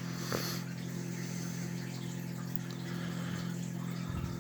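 A steady low electrical hum, with a single short tap about a third of a second in.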